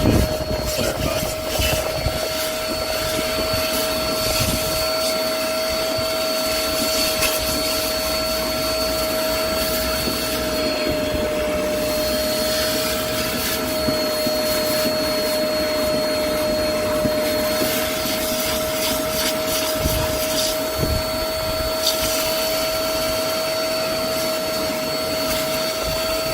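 Hoover CleanSlate Plus portable spot cleaner running continuously, its suction motor giving a steady whine at a fixed pitch as the hand tool draws dirty cleaning solution back out of seat upholstery.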